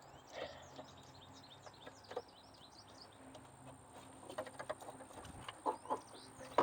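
Small birds chirping, a quick run of short falling chirps over the first half. Under it a faint steady low hum, and in the second half a few light clicks and knocks of parts being handled.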